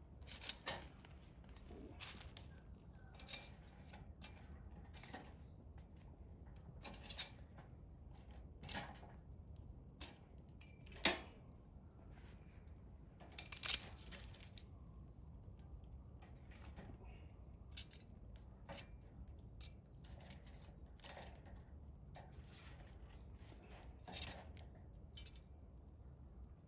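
Hardwood fire and embers crackling: irregular small pops and ticks, two louder sharp pops about halfway through, over a faint low rumble.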